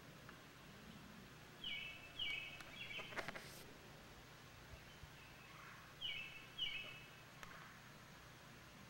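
A songbird calling in short falling chirps, in two groups of two or three about four seconds apart, over a faint steady low hum. A brief knock comes about three seconds in.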